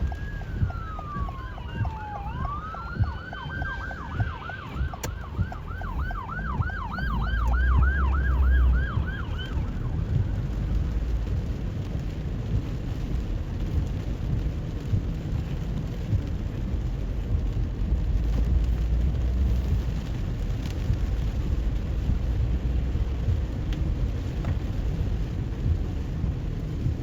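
Emergency vehicle siren: a slow wail falling then rising, switching about four seconds in to a fast yelp of about three sweeps a second, which stops near ten seconds in. Under it and after it, a steady hiss of rain and wet road with a low rumble.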